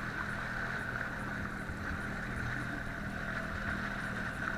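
Jet ski engine running steadily: an even drone with a constant high whine over it.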